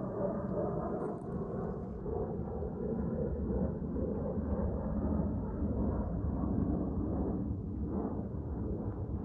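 Distant thunder rolling as a long, steady low rumble.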